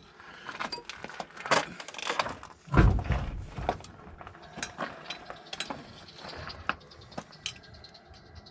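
Steel hand tools clicking, clinking and scraping against metal parts, with a heavy knock about three seconds in and lighter tapping after.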